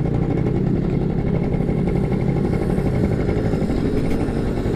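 Yamaha F1ZR two-stroke motorcycle engine running steadily.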